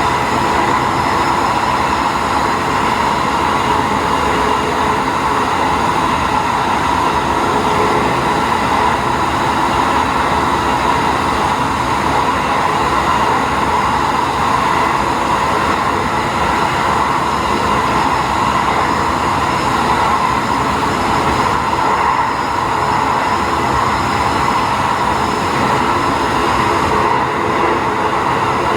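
Diesel railcar running steadily, heard from inside at the front: the drone of its engine over the noise of wheels on the rails.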